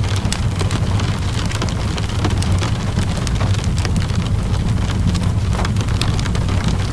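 Steady rain mixed with a crackling fireplace: an even hiss of rainfall over a low steady rumble, with frequent small, irregular pops and crackles from the burning fire.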